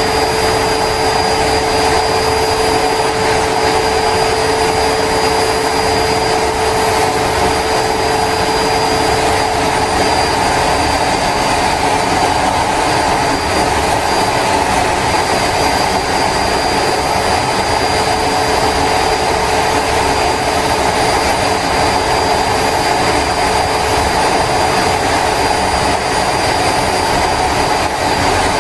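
Homemade turbocharger jet engine running steadily: a loud continuous rushing noise with a steady high whine. A lower tone in the noise fades out about ten seconds in.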